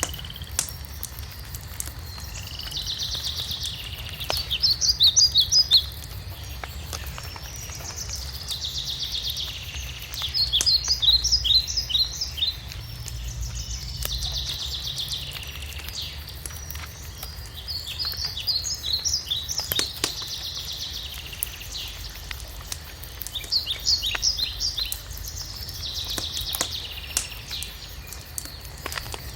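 Wood fire crackling with scattered sharp pops over a low rumble, while a songbird repeats its song about every five seconds: a run of quick high chirps alternating with a buzzy trill.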